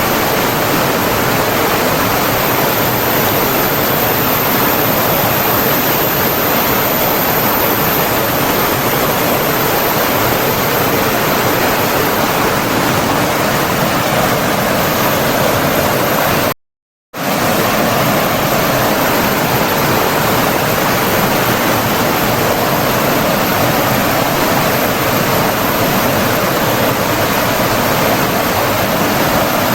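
Running water from a stream or waterfall, a steady, even rush. It breaks off into complete silence for about half a second just past the middle, then resumes unchanged.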